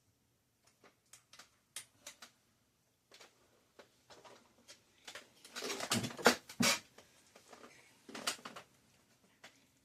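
Small clicks and light metal rattles of bicycle brake parts and hand tools being handled, with a louder burst of clattering about six seconds in and another short clatter near the end.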